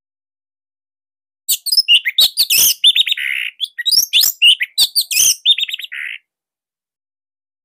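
Orange-headed thrush singing one fast, varied burst of whistled and chipping notes with two harsh rasping notes among them. It starts about a second and a half in and stops about six seconds in.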